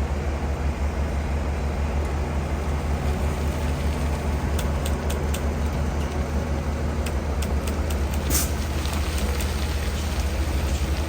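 Bulldozer's diesel engine running steadily under load while spreading stone, with scattered sharp clicks and knocks of stone and steel in the second half, one louder about eight seconds in.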